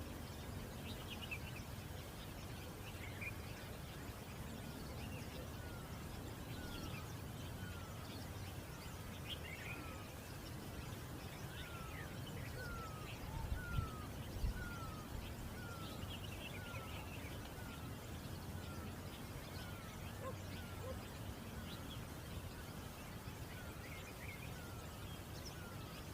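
Wild birds calling in forest. From about six seconds in, one bird repeats a short falling whistle about every 0.7 seconds, while others give scattered higher chirps. A few low thumps come near the middle.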